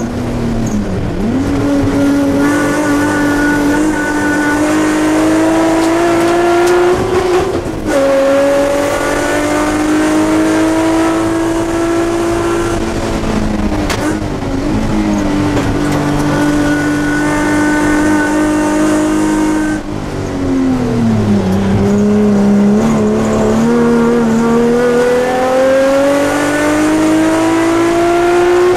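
Nissan Sentra SE-R race car's engine heard from inside the cabin under hard acceleration on track. The note climbs steadily and drops briefly about 8 and 14 seconds in as the driver shifts up. About 20 seconds in it falls steeply as the car slows for a corner, then climbs again.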